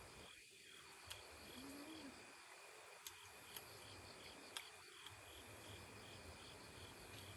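Faint crickets chirping in a steady, even pulse, about two or three chirps a second, with a few soft clicks over the top.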